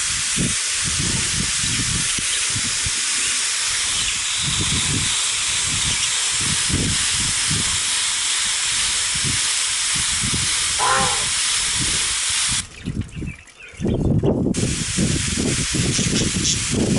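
A mist sprayer hisses steadily as it sprays water over budgies in their cage. It stops for about two seconds near the end, then starts again. Irregular low rustling and knocks sound beneath the spray.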